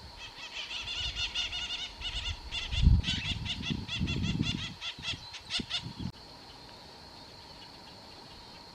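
A bird chattering in a fast, even series of high chirping notes for about six seconds, then stopping, with bouts of low rumble under it. A faint steady high whine runs throughout.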